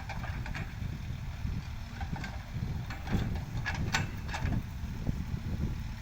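Backhoe loader's diesel engine running steadily with a pulsing low rumble, with a few sharp knocks from the working machine about three to four and a half seconds in.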